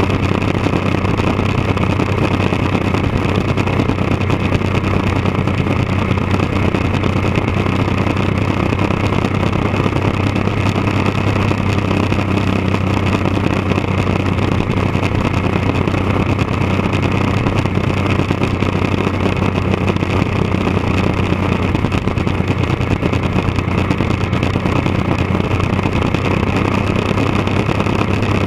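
1999 Triumph Daytona 955i's three-cylinder engine running through a D&D aftermarket exhaust, holding a steady speed with no revving.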